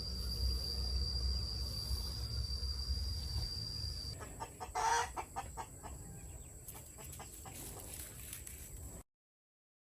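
Chickens clucking, with one loud call about five seconds in and a few sharp clicks after it. A steady high whine and a low rumble run underneath for the first four seconds, and all sound cuts off about a second before the end.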